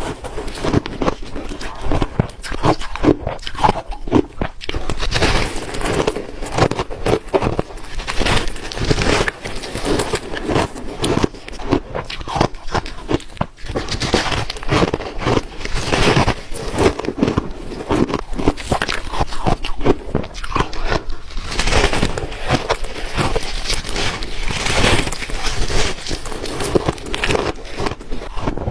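A person biting and chewing crunchy ice: a dense, continuous run of crisp cracks and crunches as the ice breaks between the teeth.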